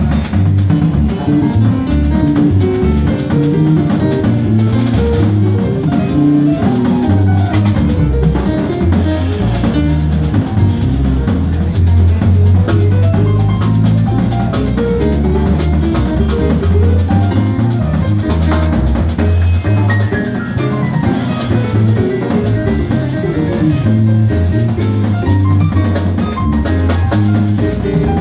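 Live jazz band playing, with the bass line loud and prominent over a drum kit.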